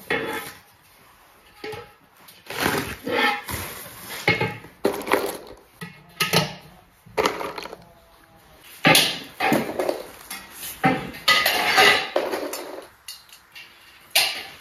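Irregular clatter, clicks and knocks of railing parts being handled and clips pushed into their holes during guardrail assembly.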